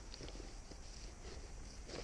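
Faint footsteps on rough ground, a loose series of soft irregular steps and small clicks over a low steady rumble.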